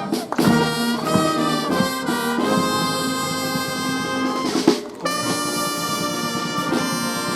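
Fire brigade brass band playing held chords, with a short break just before five seconds in before the next chord.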